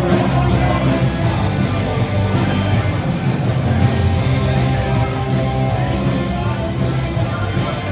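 Rock band playing live, loud and continuous, with electric guitar prominent.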